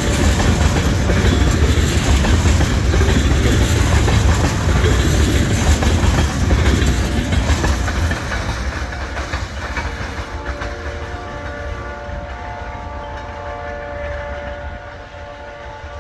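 Great Lakes Central freight train of tank cars rolling past loudly on the rails, the noise fading as the last car goes by about eight seconds in. From about ten seconds on, a locomotive horn sounds in the distance as a chord of several steady tones.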